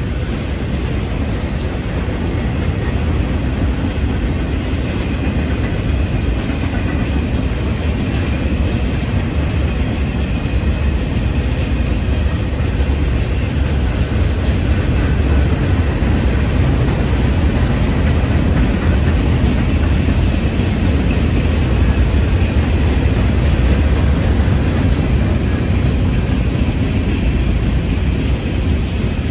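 Freight train rolling past, a steady noise of wheels on the rails that holds for the whole stretch.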